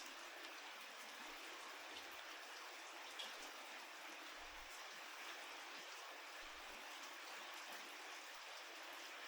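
Faint, steady rain: an even hiss of falling rain, with one sharper drop tick about three seconds in.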